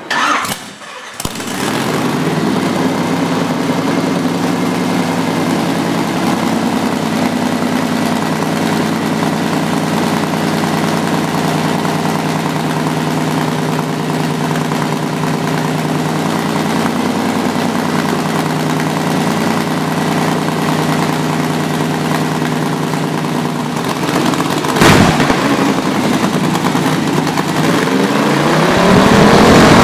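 Alcohol-injected small-block Chevy V8 catching about a second in after a brief stumble, then idling steadily. Near the end there is a sharp crack, and the engine revs up, rising in pitch and getting louder.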